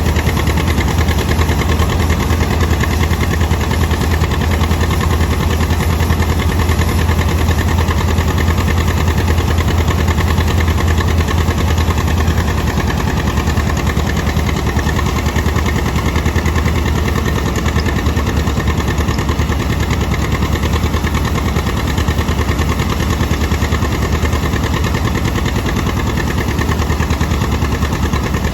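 Old tractor engine running steadily at a constant speed, with an even, rapid low pulse.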